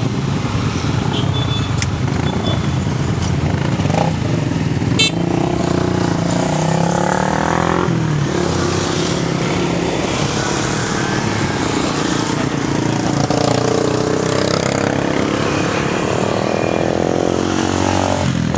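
Motorcycle engines running on the road, twice rising in pitch as they accelerate and then dropping back, with a short sharp knock early in the first half.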